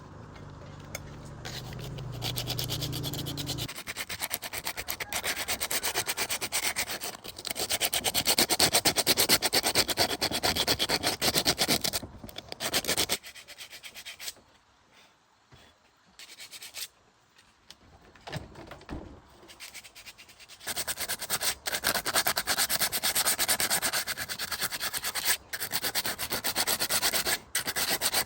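Abrasive sanding or scrubbing on a part, a rough, fast rubbing that runs in long stretches. It drops away for several seconds about halfway through, then picks up again. A low hum sounds under the first few seconds.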